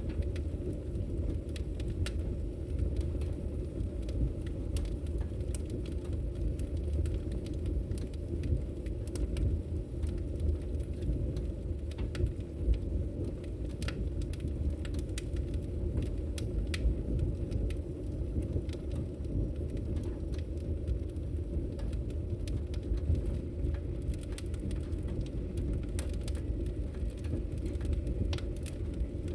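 Fireplace fire burning, with a steady low rumble of flames and frequent irregular crackles and pops.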